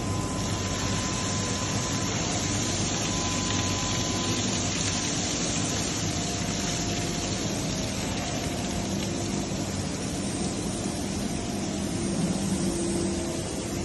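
Large heavy-duty roll grinder running: a steady machine hum with a broad whir and a few faint steady tones.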